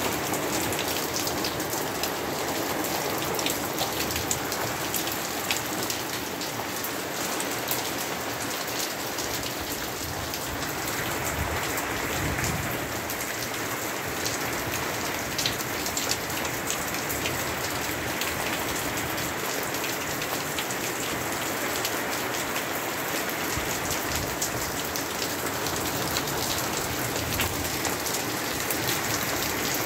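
Steady rain falling, with many separate drop hits heard close by on a surface.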